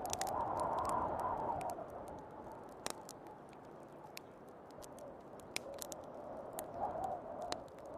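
Wood fire crackling, with sharp pops scattered throughout and one louder pop about three seconds in, over a steady blowing of snowstorm wind that swells in the first two seconds and again near the end.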